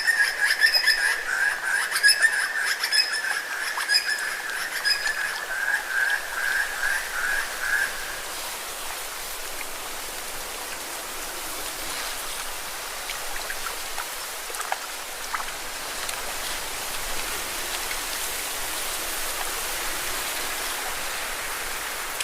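Lake water washing and splashing against rocks, a steady hiss. For about the first eight seconds a high, rapidly pulsing trill sounds over the water, then stops.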